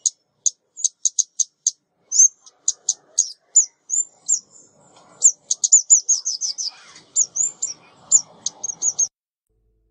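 Female 'ốc mít' songbird decoy call: rapid, high-pitched chirps and short down-slurred whistles in quick irregular series. They crowd into a fast run about six seconds in, then stop abruptly shortly before the end.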